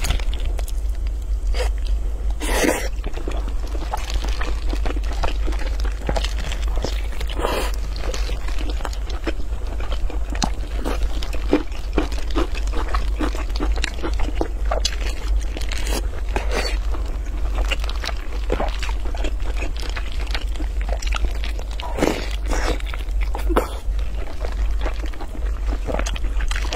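Close-miked chewing of soft, fatty glazed pork belly: wet smacks, sticky mouth and lip clicks and bites come irregularly throughout. A few louder smacks fall about 2.5 s in, 7.5 s in and twice just past 22 s, over a steady low hum.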